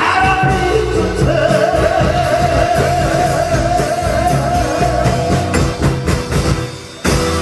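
A man singing a trot-style song live over a loud backing track with a steady drum beat; the voice holds one long note for about four seconds. The music dips briefly near the end, then comes back in loud.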